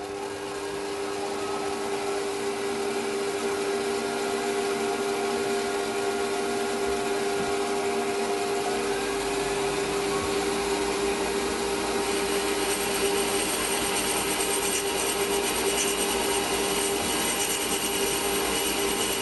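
Metal lathe running steadily with a constant whine while a boring bar takes a cut to open out a bore. A higher hiss joins about twelve seconds in.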